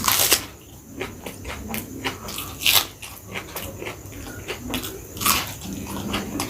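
Close-up eating sounds: chewing and smacking of a mouthful of chicken biryani, with a few louder wet bursts, the strongest at the very start, near the middle and about five seconds in.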